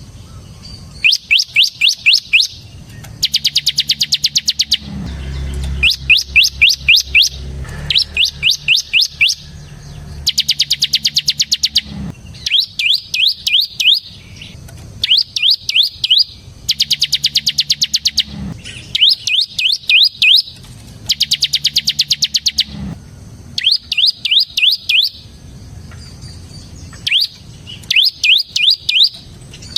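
Bar-winged prinia (ciblek) singing its fast, drill-like 'ngebren' song. It sings burst after burst of high, quickly repeated rising notes, each burst about a second long, with short pauses between.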